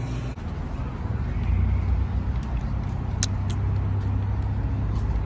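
Car heard from inside the cabin while driving: a steady low rumble of engine and road noise, with one short click about three seconds in.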